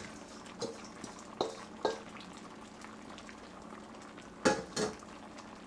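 A spoon stirring coconut in a pot, knocking against its side now and then: a few light clicks, then two louder knocks near the end, over a faint steady hum.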